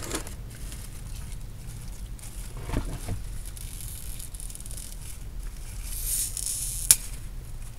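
A person biting into and chewing a crispy fried chicken sandwich, with faint crunching and paper rustling, and one sharp click near the end.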